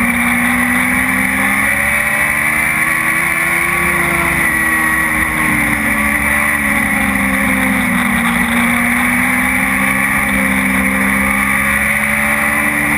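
Dwarf race car's engine running hard while lapping an oval track; its pitch rises and falls as the driver gets on and off the throttle.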